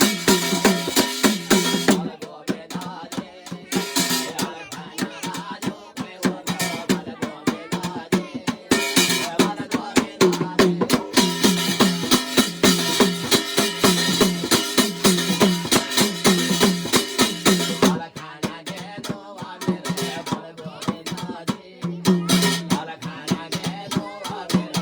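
Instrumental passage of Garhwali jagar devotional music with no singing: fast, dense drumming over sustained pitched tones. The music thins out briefly about two seconds in and again near the three-quarter mark.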